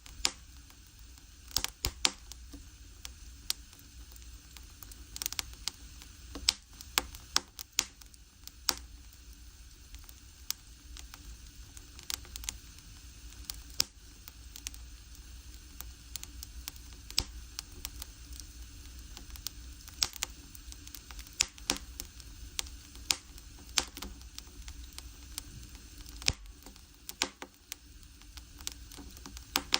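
Firewood burning in an agungi, a traditional Korean fire hole, crackling with irregular sharp pops over a steady low hiss.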